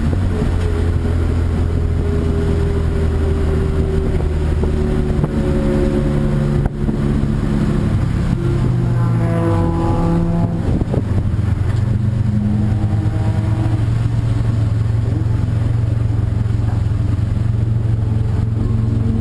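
Race car engines running steadily, with a higher engine note sweeping down in pitch about halfway through as a car goes by or lifts off.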